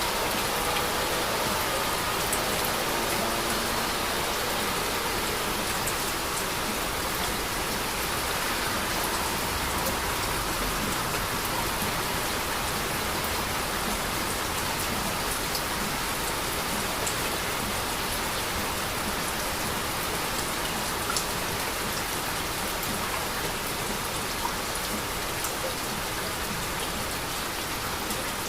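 Heavy, steady rain falling, with scattered drop ticks in a continuous hiss.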